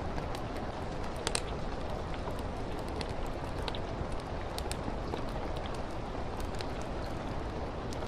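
Steady rain on a window mixed with a crackling fireplace: an even wash of rain with a low rumble, dotted with scattered sharp crackles and pops, one louder about a second in.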